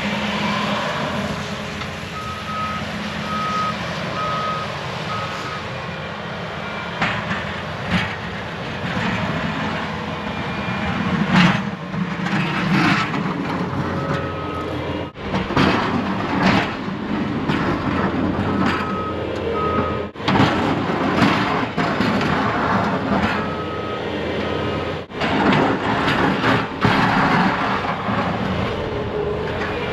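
Truck engine running steadily while a vehicle backup alarm beeps in several short runs of evenly spaced beeps, with a few sharp knocks and scrapes between them, typical of a plow truck backing up and pushing snow.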